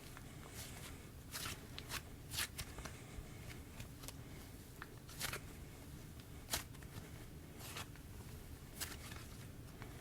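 Hands squishing and stretching a soft cloud slime mixed with sprinkles, giving irregular small pops and crackles, about nine in all.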